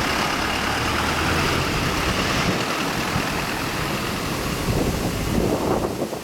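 A vehicle engine idling steadily under a hiss of wind noise, with a louder swell near the end.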